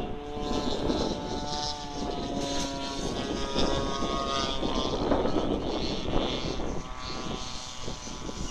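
Strong gusty wind buffeting the microphone in a heavy rumble, with steady whistling tones through much of it.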